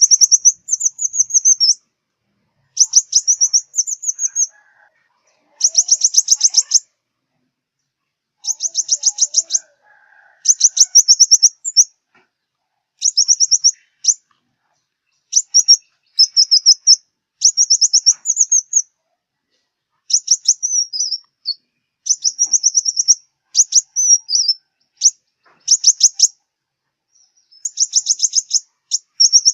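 Sunbird (the 'five-colour sunbird' of southern Vietnam) singing: short, very high, rapid trilled phrases of about a second each, repeated with brief pauses, some phrases ending in quick twittering notes.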